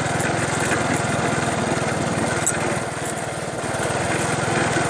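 Small engine running steadily, with a fast, even pulsing that eases slightly around the middle.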